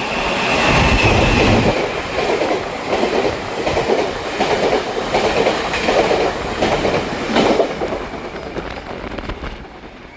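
Taiwan Railway Chu-Kuang express passing at speed, its wheels knocking over the rail-joint fishplates in a regular clickety-clack. The sound builds over the first couple of seconds and fades near the end.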